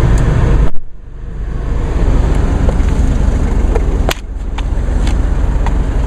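A car door slams about a second in, and the steady noise of the idling diesel engine drops sharply as it shuts. A second sharp click comes a few seconds later.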